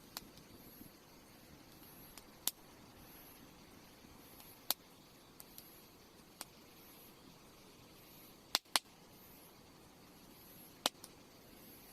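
Wood campfire crackling: sharp, irregular pops and snaps, about ten of them, over a low steady hiss.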